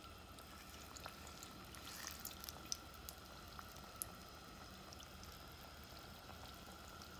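Battered tilapia fillets frying in shallow oil in a pan: a faint steady sizzle with a few small pops and crackles.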